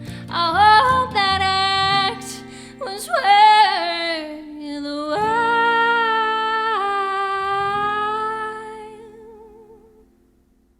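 Female soprano voice singing long held notes over acoustic guitar at the end of a song, the last note held with vibrato and fading to silence near the end.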